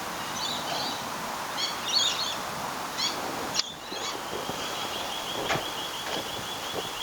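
Birds chirping in short high calls, then a fast, even trill on one high note starting about four seconds in, over a steady background hiss, with a couple of sharp clicks.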